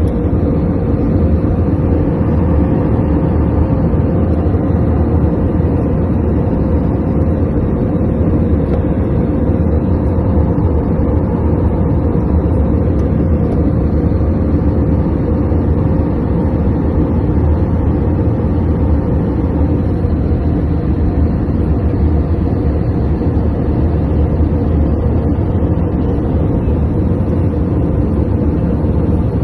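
Airplane noise: a steady, loud, low drone with one constant hum running through it, unchanging in level or pitch.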